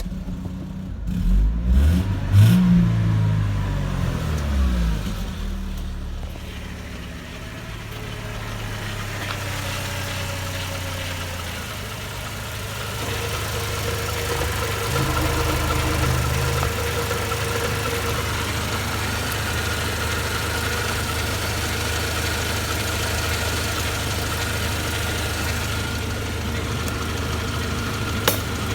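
Mercedes-Benz M111.970 2.3-litre four-cylinder petrol engine running just after starting. Its revs rise and fall in the first few seconds, then it settles into a steady idle. There is a single sharp click near the end.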